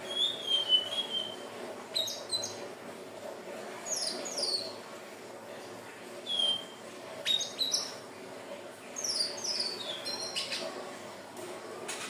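Sikatan ninon (indigo flycatcher) singing: short, high whistled phrases of quick falling notes, repeated every second or two, over a faint steady low hum.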